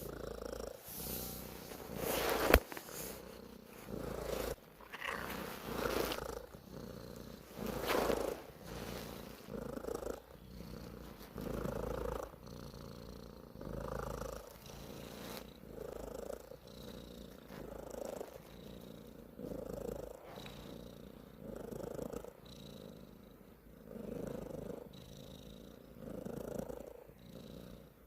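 Domestic cat purring, the sound swelling and fading about every two seconds with its breathing. A sharp click about two and a half seconds in.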